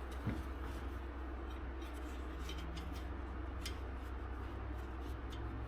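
Faint, scattered small clicks and light rubbing from hand work on parts, over a steady low hum.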